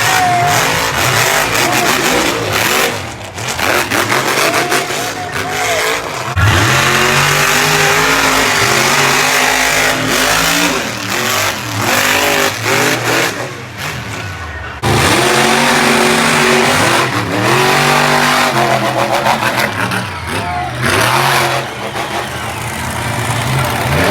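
Monster truck engine revving hard, its pitch climbing and falling with the throttle. It backs off briefly several times and surges again sharply about six and fifteen seconds in.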